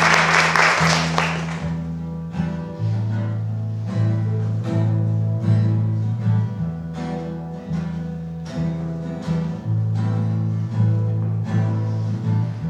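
Applause dying away in the first second or two, then an instrumental introduction: plucked guitar notes picked at an even pace over low sustained bass notes.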